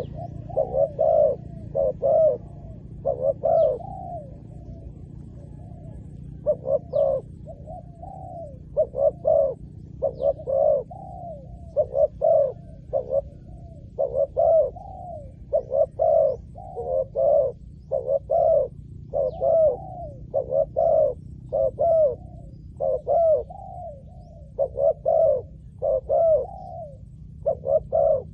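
Spotted dove cooing over and over, short coo notes in quick groups with brief pauses between phrases.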